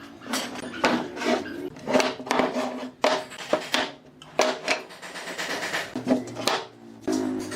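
Wood being scraped or rasped by hand in repeated rough strokes, about two a second.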